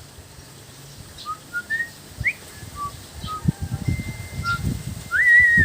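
Pet parrot whistling: a string of short chirpy notes, then near the end a louder whistle that rises and wavers up and down. Low thumps sound underneath.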